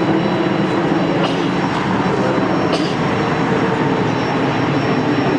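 Airbus A380's four Rolls-Royce Trent 900 jet engines running, a loud, steady rumble with a faint, steady high whine on top.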